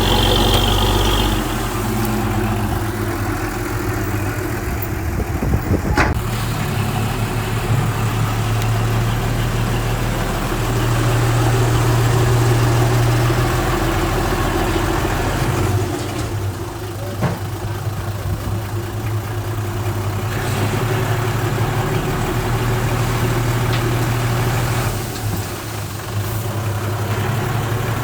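Heavy diesel engine of earth-moving machinery running steadily, its low drone swelling and easing over several seconds, with an occasional sharp knock, the clearest about six seconds in.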